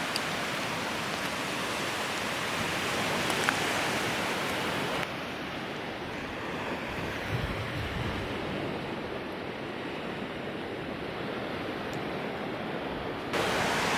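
Ocean surf washing onto a beach, a steady rushing noise. The higher hiss drops out suddenly about five seconds in and returns near the end.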